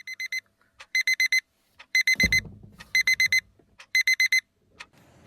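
Electronic alarm beeping in quick groups of four, one group about every second, with a dull thump a little after two seconds in. The beeping stops shortly before the end.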